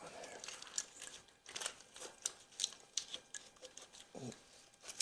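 Irregular light clicks and clinks of hand tools and metal parts being handled during an engine teardown.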